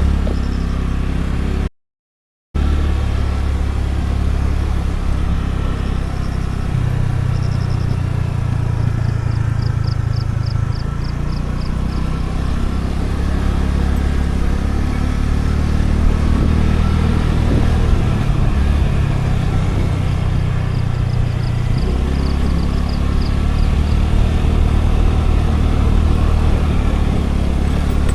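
Scooter engine running steadily while riding downhill, its low tone shifting a few times. The audio drops out completely for under a second about two seconds in.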